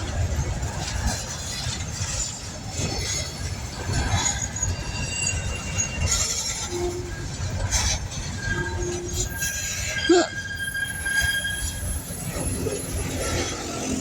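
Long coal train's cars rolling past: a steady low rumble with high metallic wheel squeals coming and going, and a single sharp clank about ten seconds in.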